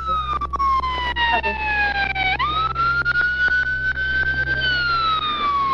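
Emergency vehicle siren wailing: the tone slides slowly down, sweeps quickly back up about halfway through, holds, then starts to fall again near the end, over a steady low hum.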